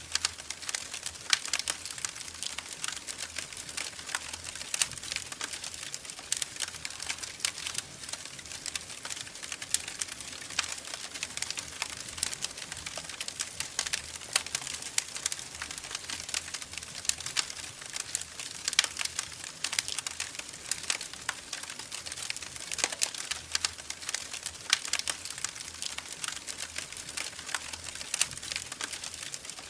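Wood fire crackling in a fireplace: irregular sharp snaps and pops over a steady soft hiss.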